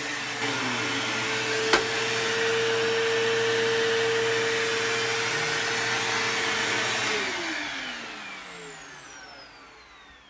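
Bissell CleanView II bagless upright vacuum running steadily with a motor whine, then switched off about seven seconds in, its pitch falling away as the motor spins down. One sharp click about two seconds in.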